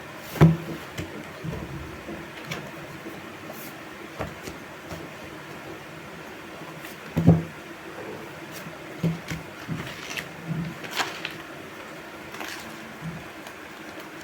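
Notebooks and packaging being handled: scattered knocks and rustles, with two louder thumps about half a second in and again about seven seconds in.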